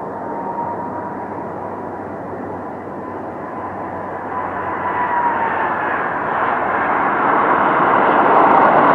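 An airplane's engines growing steadily louder as it approaches, a whine over the noise dropping slightly in pitch about two-thirds of the way through.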